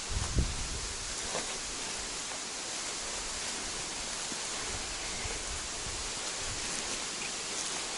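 Waterfall: a steady, even rush of falling water, with a brief low thump about half a second in.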